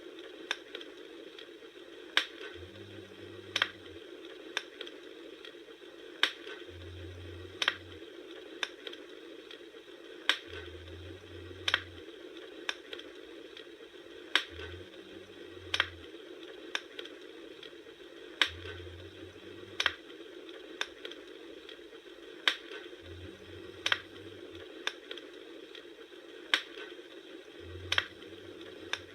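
Wood fire burning, with sharp crackles and pops about once a second over a steady hiss.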